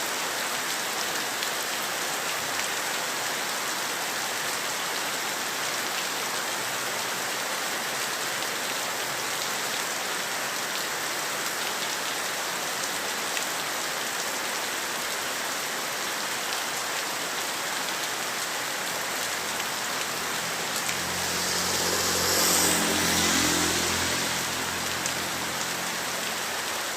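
Heavy rain falling steadily. About twenty seconds in, a motor vehicle passes, its engine hum and tyre hiss swelling and fading over a few seconds.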